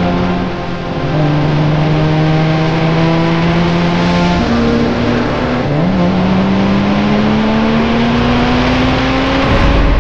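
Lamborghini Miura's V12 engine pulling hard. Its pitch holds fairly steady, then shifts with a gear change about six seconds in, and climbs steadily through the last few seconds as the car accelerates.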